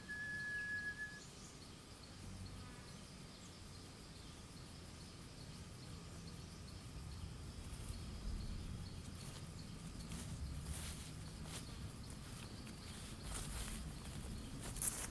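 Quiet outdoor ambience with a low rumble: a thin, steady whistle-like call in the first second, then scattered rustles and crackles through the second half.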